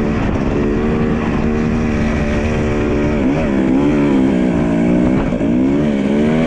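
Dirt bike engine running under throttle at a steady pitch, the pitch dipping and climbing back a little after three seconds in and again near the end, over a low wind rumble.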